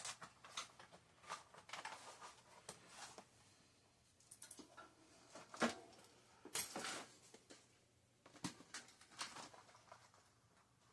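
Faint, irregular clicks, taps and short rubbing noises of hands working a bicycle wheel's tire and rim liner, with a sharper click a little past the middle.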